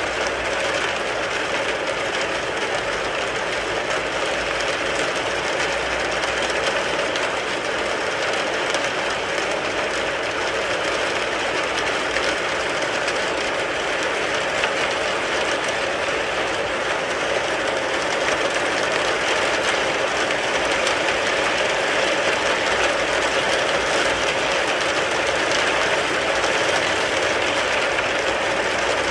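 Steady rain falling on a car, a dense, even patter of drops that keeps up without a break.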